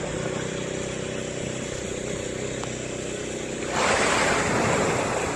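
Boat engine idling with a steady low hum. About four seconds in, a sudden loud rush of water noise rises over it and slowly fades.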